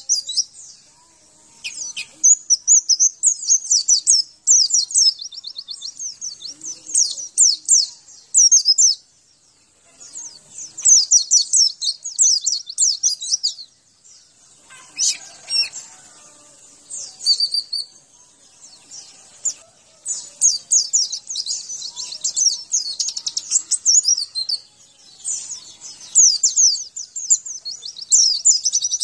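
White-eye (pleci) song: long phrases of rapid, high-pitched twittering, each a few seconds long, separated by short pauses.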